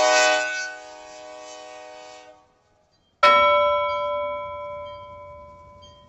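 A held musical chord that stops about two and a half seconds in, followed by a single bell strike that rings and slowly fades.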